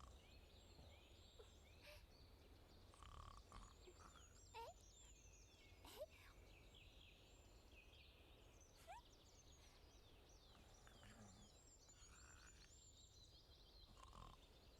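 Faint birdsong ambience: many small birds chirping in quick short notes. A few brief rising whistles are mixed in.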